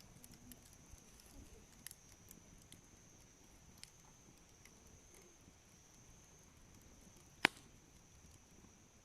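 Wood campfire burning quietly with sparse small crackles, and one sharp, loud pop about seven and a half seconds in.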